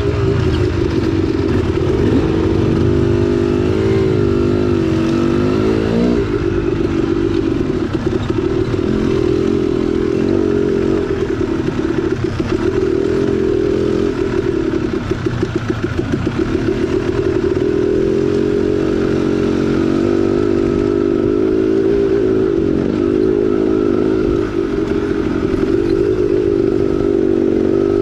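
2010 KTM 300XC-W's two-stroke single-cylinder engine running as the bike is ridden on a trail, its pitch rising and falling with the throttle.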